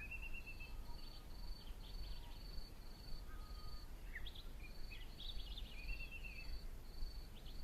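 Bush ambience: scattered bird chirps and short sweeping calls, with a high note repeating about twice a second throughout and a steady low rumble beneath.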